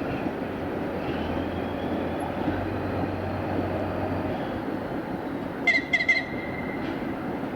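Train running with a steady rumble. About six seconds in, a few short high-pitched tones come in quick succession, then one held briefly.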